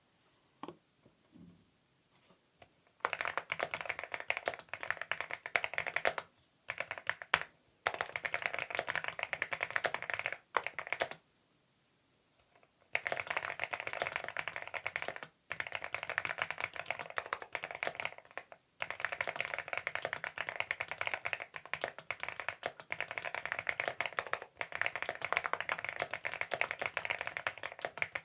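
Rapid typing on a CIDOO V21 aluminium mechanical number pad, keys clattering in runs of several seconds with short pauses, after a few light clicks at the start.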